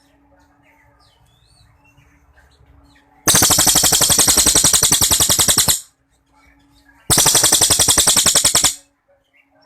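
Cililin songbird giving two loud, rapid-fire rattling trills, the 'long shot' (tembakan panjang) prized in kicau birds: the first about three seconds in and lasting some two and a half seconds, the second shorter. Faint chirps come between them over a steady low hum.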